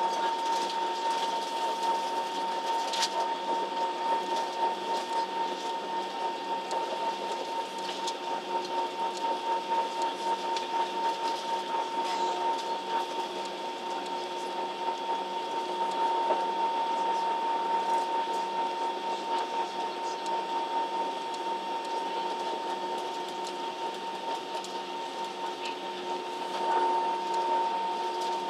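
Steady drone inside a Ryanair Boeing 737's passenger cabin on the ground before take-off, the engines and cabin air running at idle, with a high steady whine over a lower hum.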